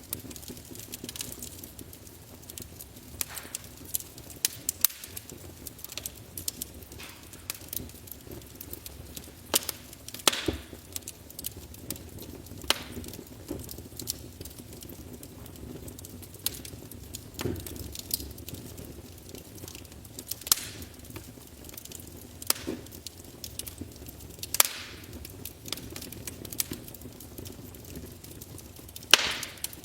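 Wood fire in a fireplace crackling: irregular sharp pops and snaps over a faint steady hiss, with the loudest pop near the end.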